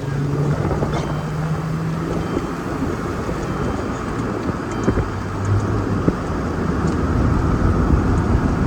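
Vehicle driving, with a steady engine hum under road and wind noise. The engine's pitch drops a little about halfway through.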